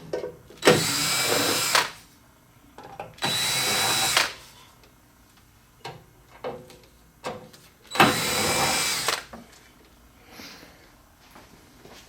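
Power drill-driver run in three short bursts of about a second each, spinning out screws, with a steady high whine; small knocks and clicks of parts being handled between the bursts.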